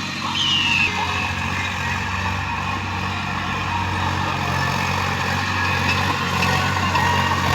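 Sonalika tractor's diesel engine running steadily under load while pulling a cultivator. A brief high tone falling in pitch sounds about half a second in.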